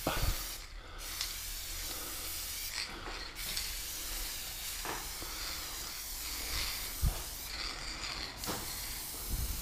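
Aerosol spray-paint can hissing as paint is sprayed onto a wall in strokes, the hiss stopping briefly about three times between strokes.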